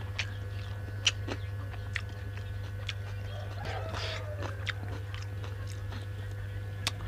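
Close chewing and biting of a person eating, with short scattered mouth clicks and smacks.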